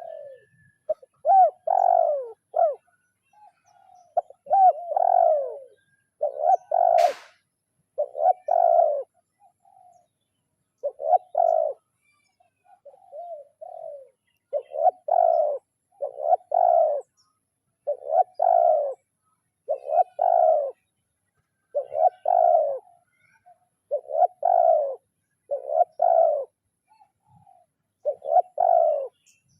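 Spotted dove cooing over and over in short phrases, about one every second or two, with a single sharp click about seven seconds in. This is a trained decoy dove's challenge call, used to draw rival doves.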